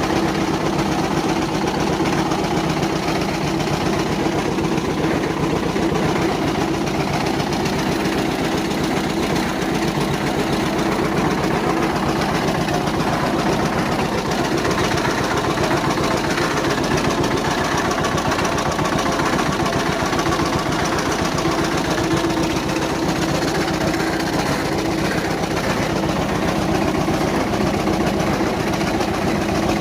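1955 Eicher ED 22 tractor's air-cooled diesel engine running at a steady speed, its firing pulses even and unchanging throughout.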